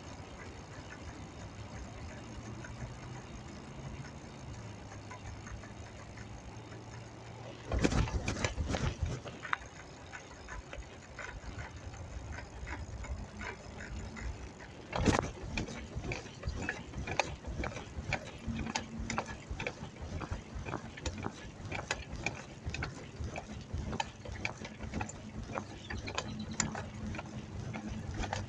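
Bicycle freewheel ticking rapidly as the rider coasts, with a loud clatter about eight seconds in and a sharp knock about halfway through.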